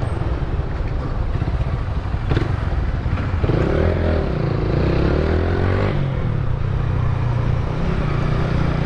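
Honda CBR1000RR Fireblade's inline-four running through a Roncar aluminium exhaust, a steady low drone whose note wavers for a couple of seconds in the middle.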